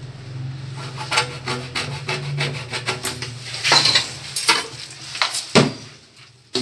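A tool scraping and rubbing against a hard surface in a run of uneven strokes, with a few sharper scrapes partway through, over a steady low hum.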